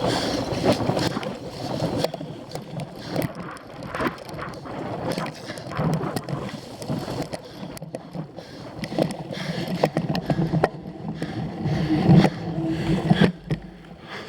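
Cyclocross bike ridden hard over rough ground, with frequent irregular knocks and rattles over a steady rush of wind and tyre noise.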